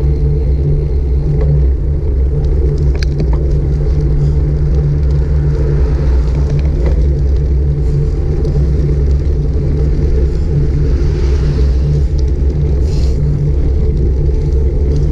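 Steady, loud low rumble of wind and ride vibration on a GoPro Hero 5 Black's built-in microphone while cycling, with a faint hiss swelling briefly about eleven seconds in.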